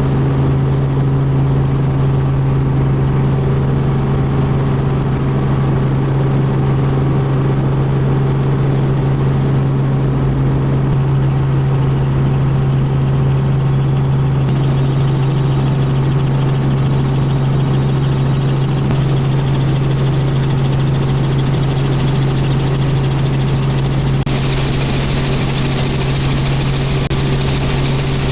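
Robinson R44 helicopter in flight: a loud, steady drone of the rotor and piston engine with a strong low hum. A brighter hiss joins it about three-quarters of the way through.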